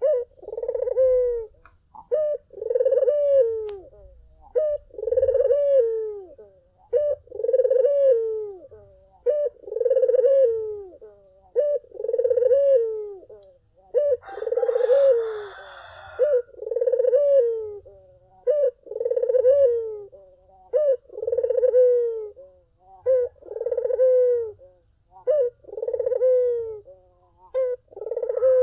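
Puter (Barbary dove) cooing over and over, each coo a short note then a longer note that falls in pitch, repeating about every two seconds. A brief rustling noise sounds about halfway through.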